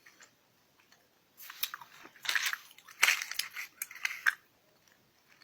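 Close-up chewing of a small citrus candy with a gum-like texture: wet clicking and smacking mouth sounds starting about a second and a half in and lasting about three seconds.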